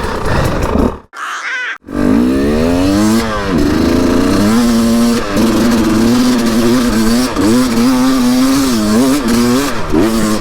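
Enduro motorcycle engine pulling under load, its revs rising and dipping again and again as the throttle is worked. The sound cuts out briefly about a second in.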